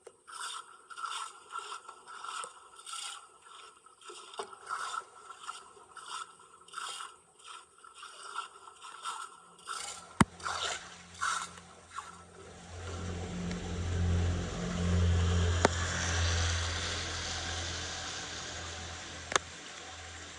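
A tool scraping debris off a storm drain grate in repeated strokes, roughly one or two a second, for about twelve seconds. A steady rushing noise with a low hum then takes over, swells and slowly fades, with a couple of sharp clicks.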